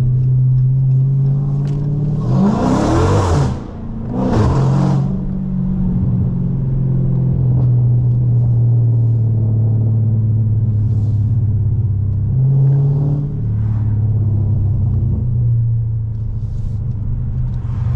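Dodge Charger Scat Pack's 392 HEMI V8 through a straight-piped exhaust (catless midpipes, race exhaust, no mufflers or resonator), droning steadily while cruising. About two seconds in it revs up hard twice in quick succession with a brief drop between, and there is a smaller rise in revs later.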